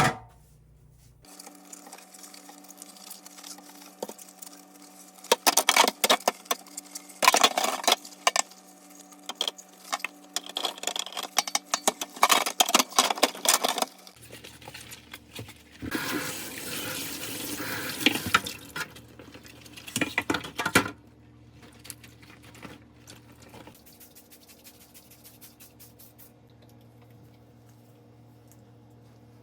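Fridge door shelves being washed at a kitchen sink. Plastic parts knock and clatter, with the tap running for a few seconds in the middle, then only faint handling sounds.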